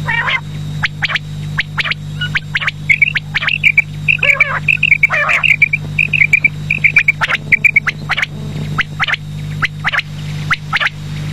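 Quail calls: quick runs of short, high chirping notes through the middle, over a steady low hum and frequent sharp clicks.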